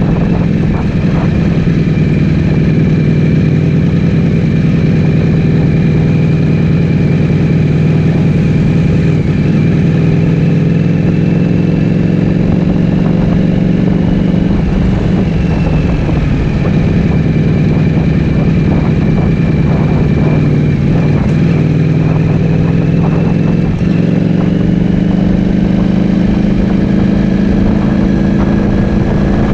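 Ducati Streetfighter V4S's 1103 cc V4 engine, fitted with an Akrapovic full-system exhaust, running loud at a fairly steady engine speed with only slight rises and falls in pitch.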